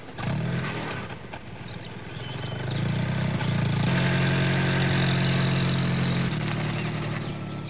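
A motor running with a steady hum that grows louder over the first few seconds, drops a step about six seconds in and then fades, with birds chirping.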